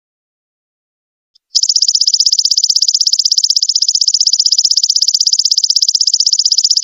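Golden locust (belalang emas) insect calling: a loud, rapid, evenly pulsed high trill that starts after about a second and a half of silence and then runs on without a break.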